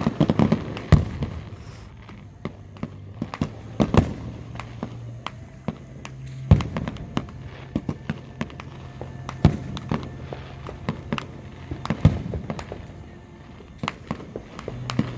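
Fireworks going off: a series of sharp booms and crackling reports, the biggest bangs coming every two to three seconds with smaller crackles in between.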